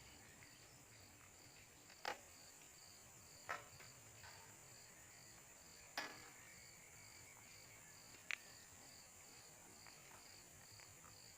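Near silence with faint insect chirping in an even pulse, about two chirps a second, and a few short sharp clicks.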